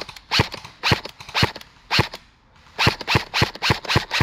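Airsoft rifle firing single shots as sharp cracks: about one every half second at first, then a quicker string of about five a second from nearly three seconds in.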